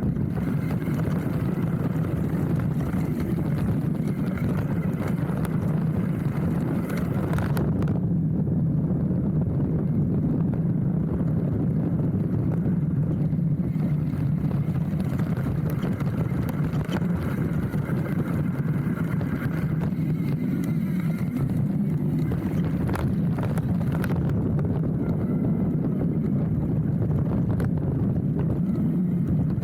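Steady rumble of a hardtail mountain bike rolling fast over a dirt trail, with wind buffeting the handlebar-mounted microphone and a couple of sharper knocks from bumps.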